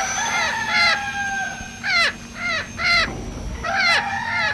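A bird calling over and over: short harsh calls, each falling in pitch, coming in quick runs of two or three, over a thin steady high-pitched whine.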